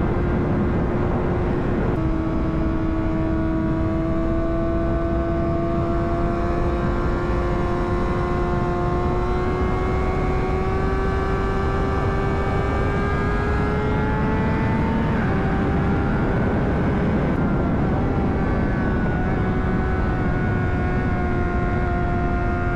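2009 Honda CBR600RR's inline-four engine running steadily under way, its note climbing slowly as the bike gains speed, with a small drop in pitch about two seconds in and again about two-thirds of the way through. Steady wind rush on the helmet microphone lies under it.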